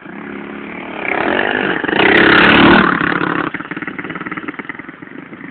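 Pit bike engine revving hard as the bike rides close by. It builds about a second in, is loudest between two and three seconds in, then drops back to a lower buzz.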